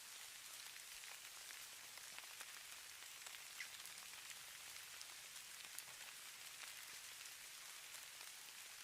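Faint, steady hiss of falling snow or light precipitation pattering on a surface, with many tiny scattered ticks of flakes or drops striking.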